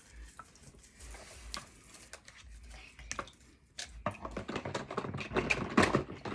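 Small clicks, taps and scrapes of a plastic toy truck being handled and scrubbed clean, growing busier and louder about four seconds in.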